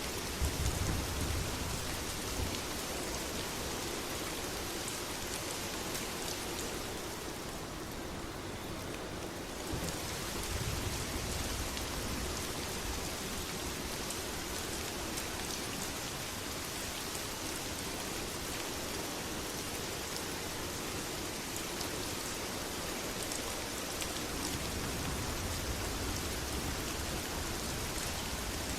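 Steady heavy rain, with low rolls of thunder rumbling just after the start, about ten seconds in, and again near the end.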